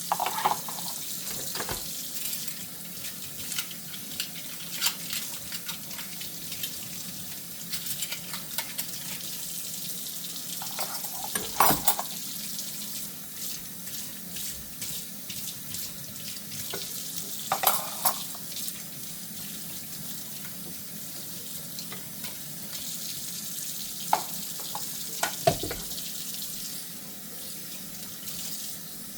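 Kitchen tap running steadily into a sink during hand dishwashing, with a handful of short clinks and knocks of dishware scattered through it.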